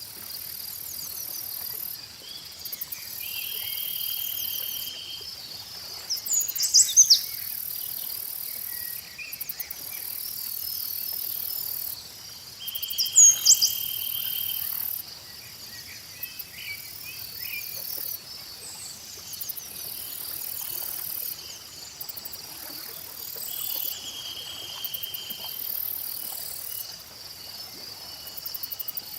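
Chorus of insects chirring steadily, with a very high-pitched buzz that switches on and off every few seconds, while birds chirp over it. Sharp bird call notes about seven and thirteen seconds in are the loudest sounds, and a clear whistled note is held for a second or so three times.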